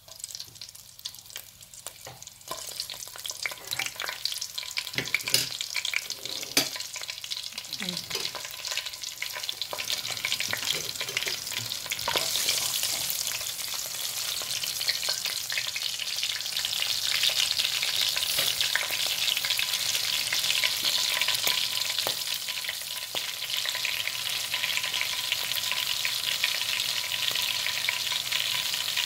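Green chillies frying in hot oil with whole spices in a metal pot, stirred with a wooden spatula. Scattered scrapes and taps come first, then a steady sizzle builds up after the first third and keeps going.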